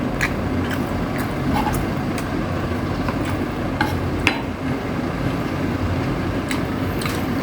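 Chewing rotisserie chicken, with a dozen or so short, scattered clicks over a steady low rumble.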